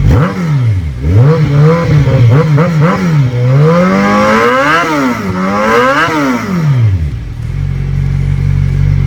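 Kawasaki Z1000SX inline-four revved through a Black Widow full exhaust system with carbon silencers, in a run of throttle blips that rise and fall. The engine drops back to a steady idle about seven seconds in.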